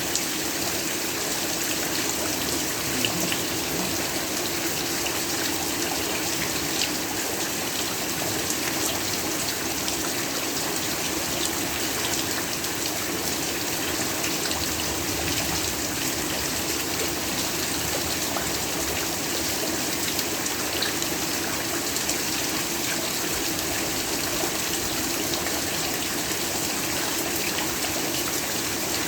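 Heavy rain falling steadily: a dense, even hiss with a few louder drop ticks scattered through it.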